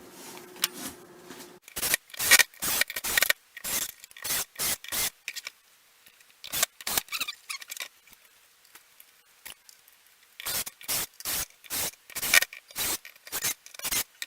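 A run of short, quick scraping strokes, about three a second, in three bunches with pauses between.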